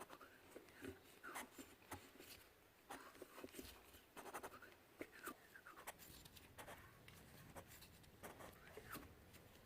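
Faint, irregular short scratching strokes and light clicks, about one or two a second, as of small hand work on a part.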